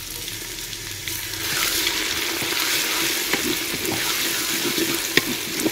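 Ginger-garlic paste sizzling as it frys in hot oil with browned onions in a clay pot, growing louder about a second in as it is stirred in, with a wooden spoon scraping and knocking a few times against the pot.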